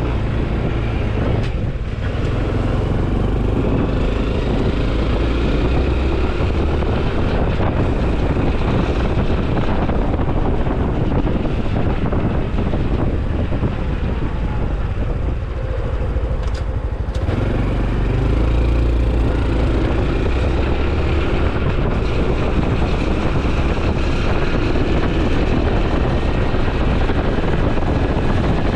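Honda CT125 Hunter Cub's single-cylinder four-stroke engine and exhaust running while riding. The low exhaust note drops away for a couple of seconds about halfway through, then comes back strongly.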